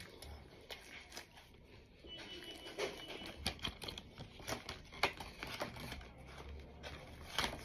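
Close-up eating sounds: chewing with irregular small mouth clicks and light rustles.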